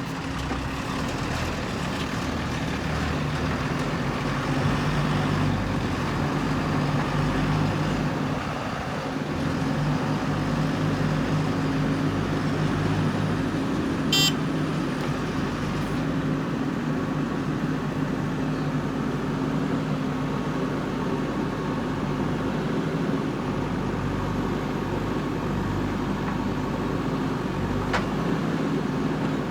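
JCB 3DX backhoe loader's diesel engine running steadily under work, with a brief sharp click about halfway through.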